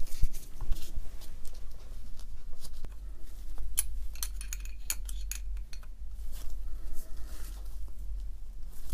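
Scattered light metallic clicks and clinks of small steel socket cap screws and a hex key being fitted into a rotary hammer's metal housing, over a low steady hum.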